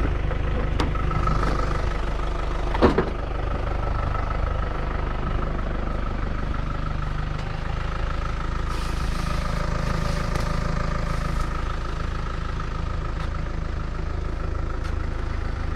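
Car running steadily while being driven, with a single sharp knock about three seconds in.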